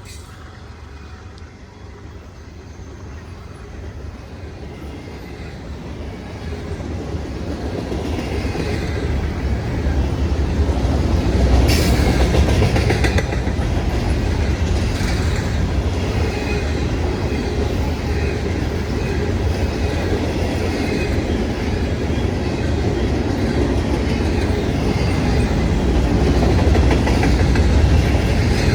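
Freight train approaching and passing, growing louder over the first ten seconds into a steady heavy rumble with the wheels clicking over the rail joints.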